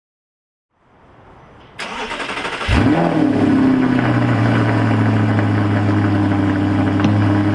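Audi R8's V8 engine cold-starting: a short stretch of cranking, then the engine catches near the three-second mark with a brief rev flare and settles into a steady fast idle.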